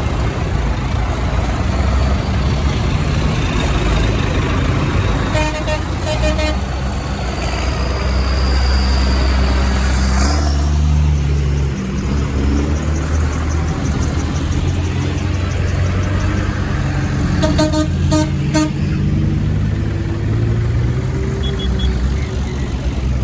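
Tractor engines running as tractors pass one after another. Short horn toots sound in quick series: about three a little over five seconds in, and several more around eighteen seconds.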